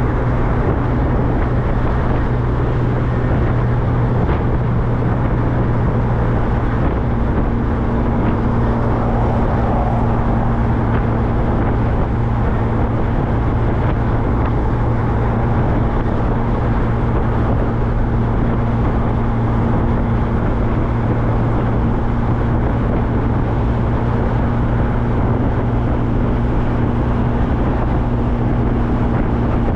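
MG Midget's small four-cylinder engine droning steadily at cruising speed, heard from inside the open-top car, with a constant wash of wind and road noise. A second steady engine note joins about a quarter of the way through.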